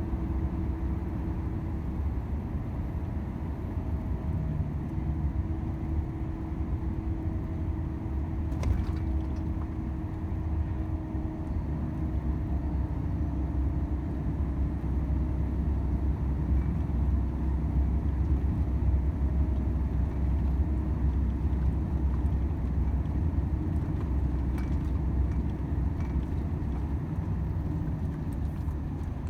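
Volvo FH 500 truck driving along at a steady pace: a continuous low drone of engine and road noise, with a faint steady engine hum and a single click about nine seconds in.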